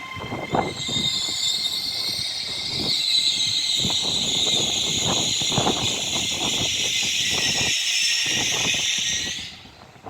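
Steady hiss of compressed air from the Class 807 electric train standing at the platform, starting about a second in and cutting off suddenly near the end, with scattered light knocks.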